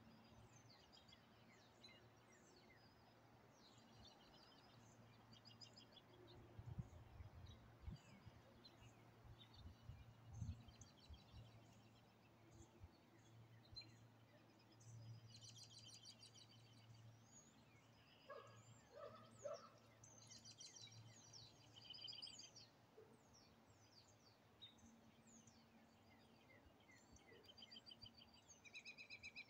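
Faint songbirds chirping and trilling, many short calls overlapping, over a low steady hum, with a few soft low thumps about a quarter of the way in.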